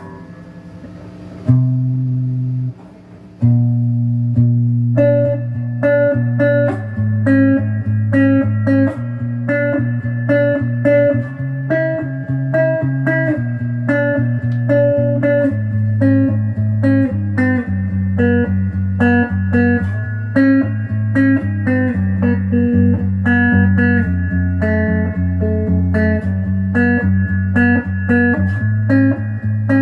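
Donner DLP124 electric guitar played through an amp on the middle pickup position (both pickups), a riff of single notes and double stops in a steady rhythm, with a short break about three seconds in.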